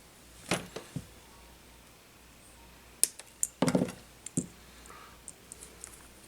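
Small tools and parts handled on a workbench during a drone frame repair: a few sharp clicks and knocks shortly after the start, then a denser cluster of clacks a few seconds in, then a few light ticks.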